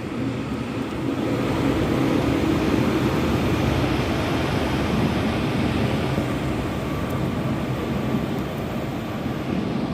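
Class 397 electric multiple unit pulling out of the platform: a steady running noise of wheels and traction equipment with a low hum, swelling slightly in the first couple of seconds.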